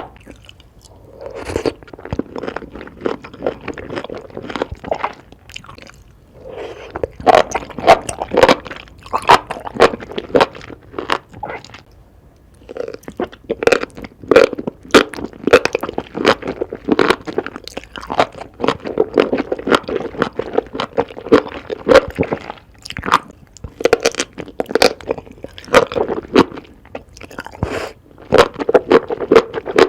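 Close-miked eating: crunchy bites and chewing, a rapid crackle of clicks with wet mouth sounds, in bursts broken by brief pauses, one a few seconds in and another about halfway through.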